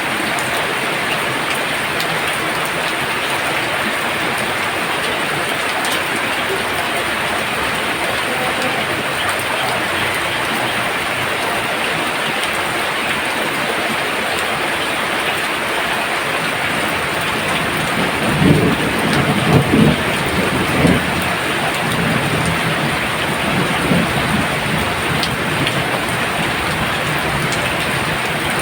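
Very heavy rain pouring down steadily, with a low roll of thunder about two-thirds of the way through.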